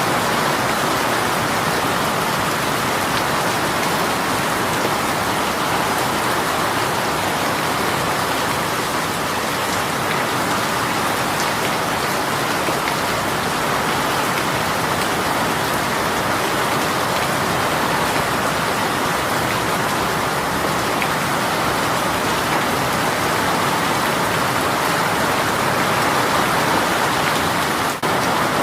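A sudden downpour of rain falling steadily: a dense, even hiss of rain on surfaces, with scattered individual drops ticking through it. The level dips for a moment near the end.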